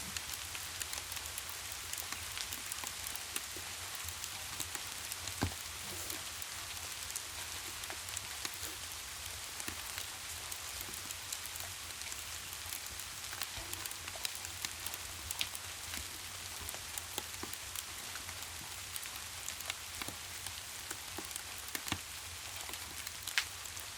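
Steady rain falling, mixed with scattered sharp crackles and pops from a log fire, with a few louder pops.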